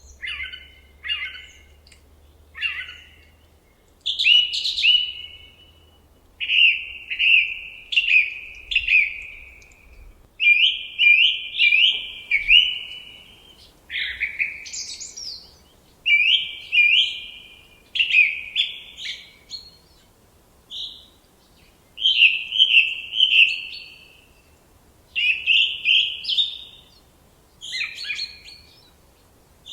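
Songbird singing in short, repeated phrases of quick downward-sweeping chirps, a new phrase every second or two with brief pauses between.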